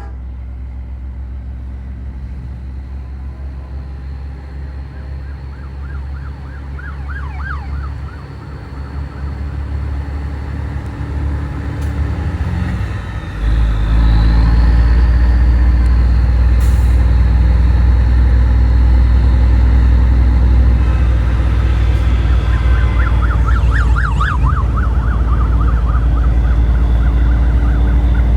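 Semi-truck running in a convoy, a steady low rumble that gets much louder about halfway through as the engine pulls harder. A siren warbles faintly twice over it, once around a third of the way in and once near the end.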